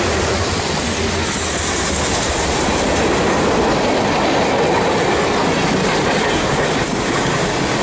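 Freight train cars rolling past close by: a loud, steady noise of steel wheels running on the rails.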